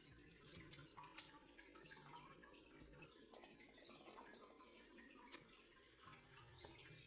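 Faint trickling and dripping water with small irregular ticks.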